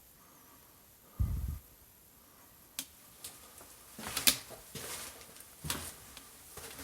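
A dull low thump about a second in, then a sharp click and, from about four seconds in, irregular clicks and crackly scraping noises.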